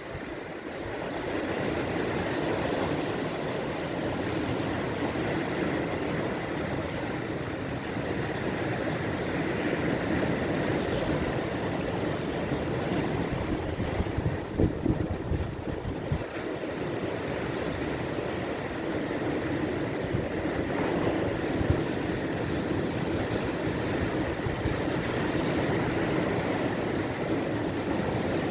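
Baltic Sea surf: a steady wash of waves, with wind on the microphone and a few louder low bumps about halfway through.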